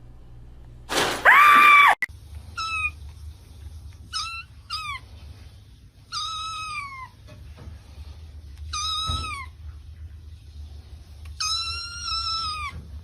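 Kitten meowing: one loud meow about a second in, then a string of six shorter high meows, each dropping in pitch at its end.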